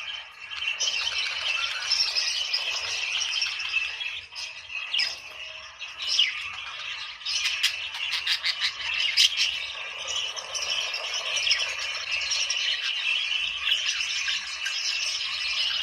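A flock of budgerigars chattering and warbling without a break, with a run of sharp chirps and squawks between about five and ten seconds in.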